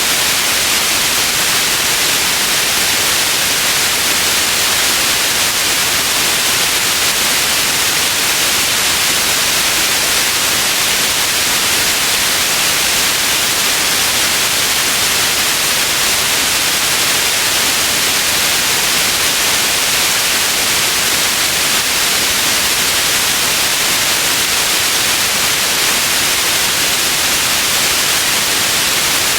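Steady white noise for sleeping: an even, bright hiss that does not change.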